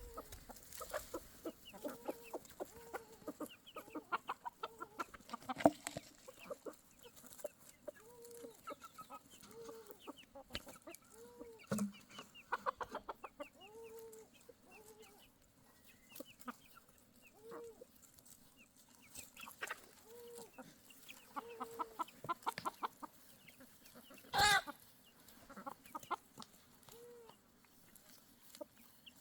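Chickens clucking: short, rising-and-falling clucks repeat about once a second, mixed with higher chirps. One louder call comes about 24 seconds in.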